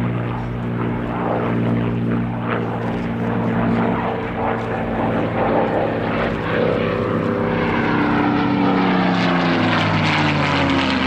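Supermarine Spitfire's piston engine running as it flies past, its note steady at first and then falling in pitch over the last few seconds as it passes.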